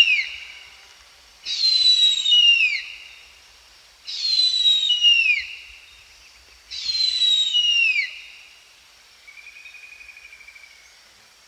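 Harpy eagle calling: four high, drawn-out screams about two and a half seconds apart, each sliding down in pitch, followed by a faint trill.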